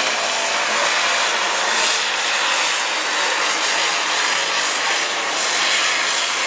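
Super Stock Open pulling tractor's turbocharged engine running flat out under load during a pull: a loud, steady, high-pitched scream.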